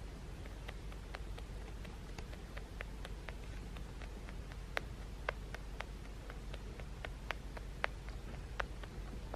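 A rabbit crunching its food: quick, irregular crisp clicks, a few a second, some louder in the second half, over a steady low rumble.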